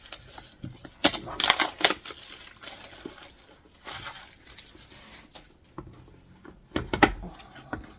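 Packaging being unwrapped and handled as a boxed notebook is opened: bursts of rustling and crinkling with a few sharp knocks, loudest about a second and a half in and again near the end.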